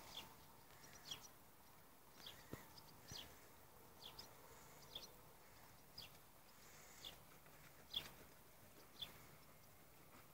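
A small bird chirping over and over, short high falling notes about once a second, faint against a low hiss.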